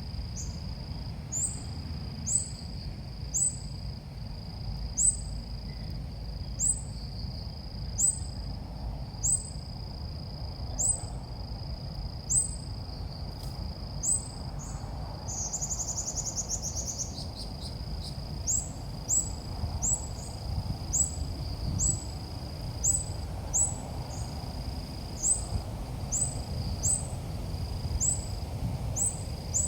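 Ốc mít bird calls played as a trapping lure: short, high, rising chirps repeated about once or twice a second. A steady high-pitched whine runs beneath them and breaks off in places, and a brief buzzy trill comes about halfway through.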